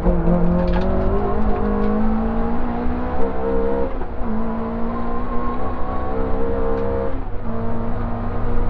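Opel Ascona 400 rally car's engine heard from inside the cabin, accelerating along a stage: the pitch climbs through each gear and drops back at upshifts about four and seven seconds in.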